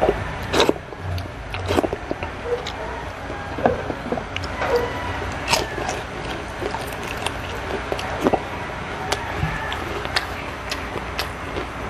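Close-miked eating sounds: wet mouth clicks, lip smacks and chewing as a last bite of rice is eaten from the fingers, scattered irregularly over a steady low hum.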